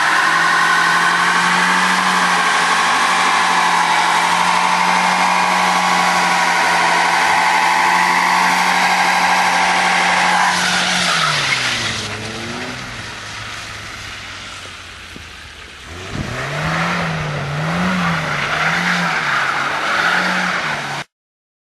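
Vehicle engine held at steady high revs, falling to idle about halfway through, then revved up and down in a series of short blips. The sound cuts off abruptly near the end.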